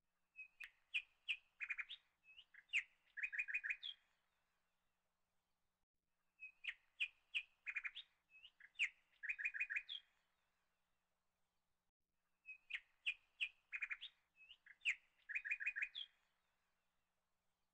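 Birds chirping: a phrase of quick high tweets and short trills, played three times over exactly the same way, about six seconds apart, as from a looped recording.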